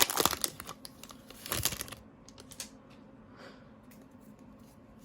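Trading cards being handled and flipped through: a run of quick, light clicks and rustles that thins to a few faint clicks about two seconds in.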